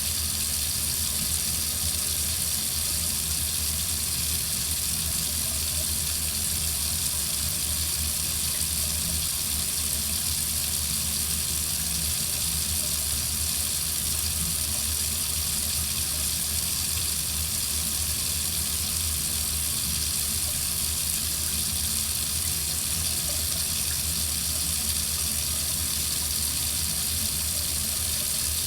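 Water running steadily from a faucet into a sink, a constant hiss with a low rumble underneath.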